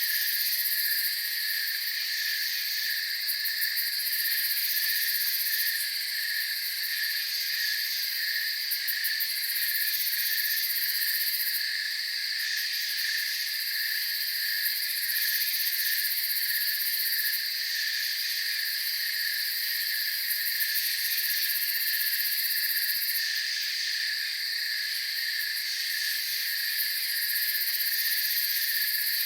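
Night chorus of crickets and other insects: a fast pulsing trill, a steady higher buzz above it, and a very shrill high layer that drops in and out every few seconds.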